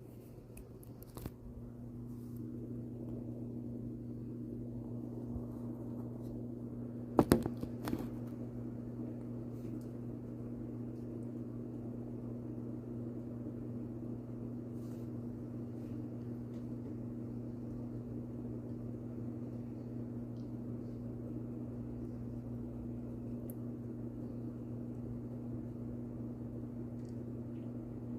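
A steady low machine hum that builds up over the first two seconds, with a couple of sharp clicks about seven seconds in.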